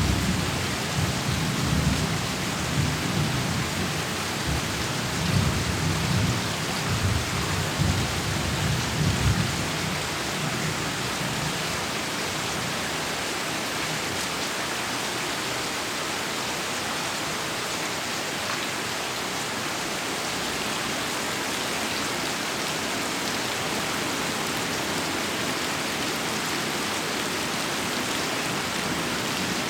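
Heavy rain falling steadily, with thunder rumbling low for roughly the first ten seconds before it dies away, leaving only the even hiss of the downpour.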